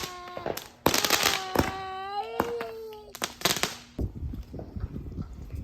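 Consumer fireworks going off: a string of sharp bangs and pops over the first three and a half seconds, with a small child crying in a wavering voice through the middle of it.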